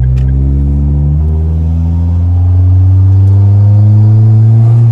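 Turbocharged Perodua Myvi four-cylinder engine with a bolt-on turbo kit, heard from inside the cabin, pulling under acceleration. Its pitch climbs slowly and steadily, growing a little louder about halfway through.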